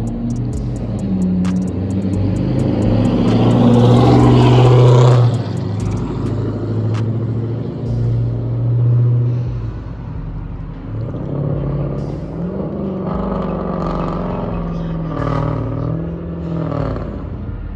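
Straight-piped Dodge Charger R/T's 5.7 Hemi V8 exhaust, with no mufflers, resonators or cats, running and being revved. It is loudest about four to five seconds in, and the pitch rises and falls with several revs near the end.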